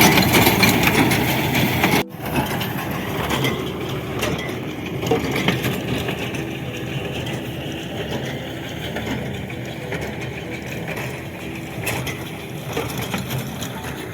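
Tractor-drawn small square hay baler at work, with loud crackling and crunching as hay is fed in and compressed. About two seconds in the sound cuts to a quieter, steady running of the machinery with a low hum and occasional clicks.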